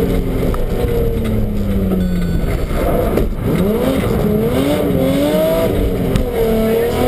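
BMW rally car's engine heard from inside the cockpit under hard driving. The engine note drops away for a second or two, then climbs sharply about three seconds in and keeps rising and falling with the throttle over a steady low rumble.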